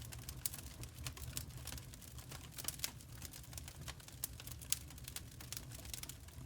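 Wood fire crackling: irregular sharp snaps and pops over a low steady rumble.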